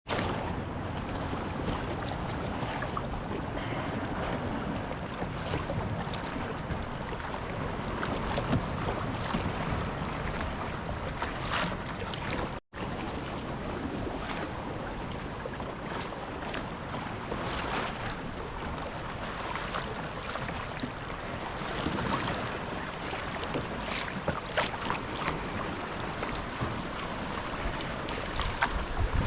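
Water splashing and lapping around a paddled kayak, with short irregular splashes from the paddle and wind buffeting the microphone. The sound cuts out completely for a moment a little before the middle.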